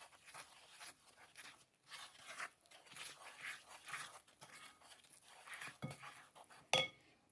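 Spoon beating cake batter in a mixing bowl: quiet, irregular stirring strokes, a few a second, with one sharper knock near the end.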